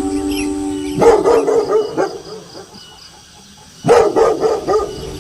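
Dog barking in two short bursts, about a second in and again about four seconds in, with a quieter gap between them; a long drawn-out wolf howl holds on one pitch at the start and comes back near the end.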